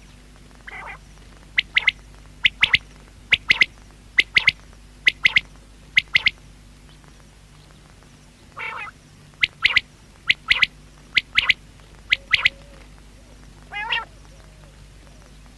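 Common quail (batair) calling: runs of short, sharp notes in quick pairs and triplets, with softer, longer rasping calls about a second in, near nine seconds and near fourteen seconds.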